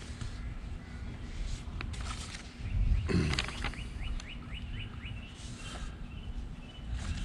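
A low, steady rumble of wind noise runs under everything. About three seconds in there is a brief louder rush, and then a bird calls a quick series of about ten short, falling chirps.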